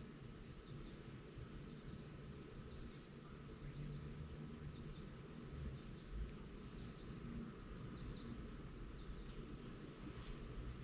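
Bonfire of dry bamboo and brush burning, with faint scattered crackling over a low steady rumble.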